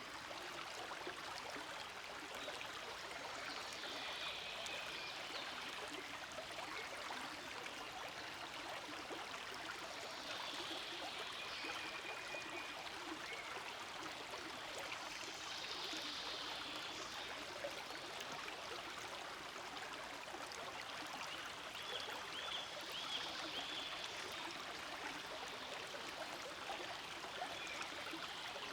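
Small forest stream flowing steadily, a continuous rush and babble of running water, with brighter trickling patches that come and go.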